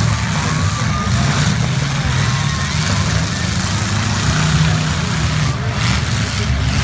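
Many demolition-derby car engines running and revving together in a dense, steady low rumble.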